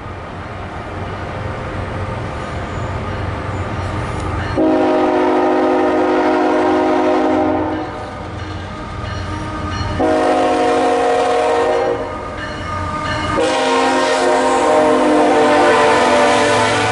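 CSX freight diesel locomotive's multi-chime horn sounding three blasts, a long one, a shorter one and another long one, over the low rumble of the approaching double-stack intermodal train.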